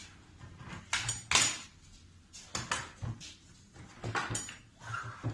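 Clinks and knocks of a cordless miter saw being handled and lifted, several sharp hard contacts in a row, some with a brief metallic ring.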